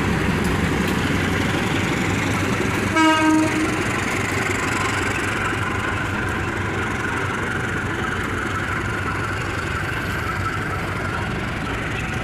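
Passenger train running past with a steady rumble of wheels on rails, the locomotive giving one short horn blast about three seconds in.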